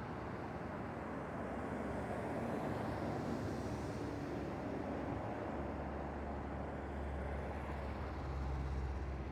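Steady outdoor background rumble and hiss with no distinct events, its low rumble growing stronger about halfway through.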